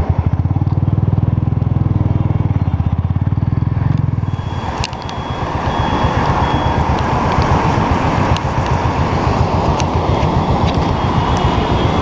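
Royal Enfield single-cylinder motorcycle engine running under load as the bike pulls away, its fast exhaust pulse strongest at first. About four seconds in it eases off briefly, then runs on at road speed with wind and traffic noise.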